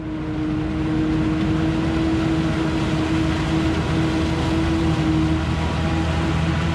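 Heavy farm machinery engine running steadily at constant speed, with a strong steady droning tone over the engine noise.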